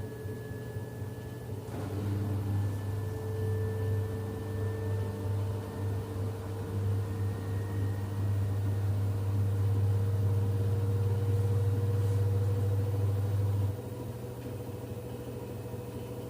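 LG F10B8MD washing machine on its final spin: the drum motor's whine slowly climbs in pitch as the spin builds, over a deep hum that cuts in about two seconds in and drops away near the end. It runs smoothly with no knocking, which the owner takes as the sign of healthy bearings and a machine that isn't jumping.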